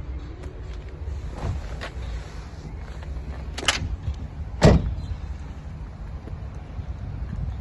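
Steady low rumble around a car with a few knocks, then two sharp thumps about a second apart near the middle, the second the loudest.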